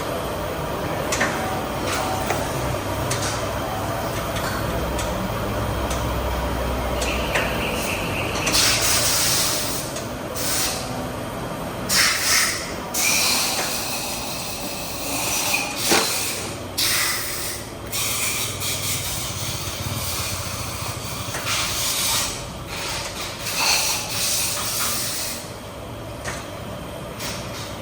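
A steady low hum, then repeated short bursts of hissing, each about a second long, with a sharp click partway through.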